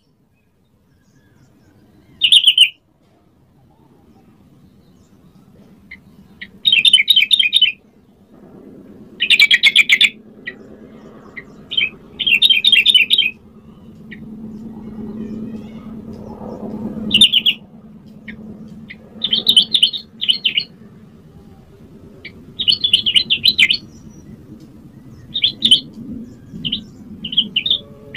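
Yellow-vented bulbul (trucukan) singing short, loud, bubbly phrases, about a dozen of them with pauses between. A faint low hum sits underneath and swells in the middle.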